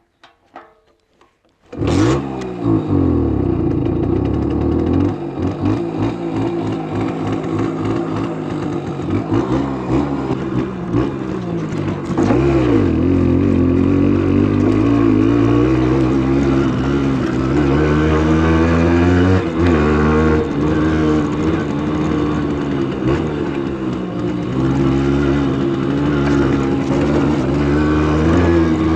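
Simson S51's 50 cc two-stroke single-cylinder engine running under way, revving up and down repeatedly with its pitch rising and falling. It cuts in suddenly about two seconds in, after a few faint clicks.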